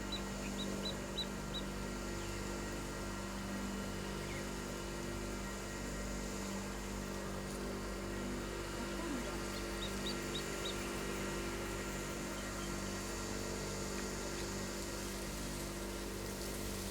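A steady low hum throughout, with a bird's short, evenly repeated high chirps at the start and again briefly about ten seconds in.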